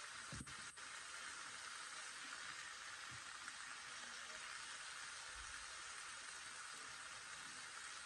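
Chicken mince and onions sizzling gently in a frying pan, a steady soft hiss, with a couple of faint knocks just under a second in.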